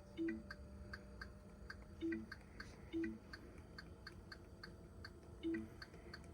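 Roku interface sounds: four short two-note blips, each falling from a higher tone to a lower one, as remote presses move through the on-screen menu. Under them runs a steady rapid ticking, about three ticks a second.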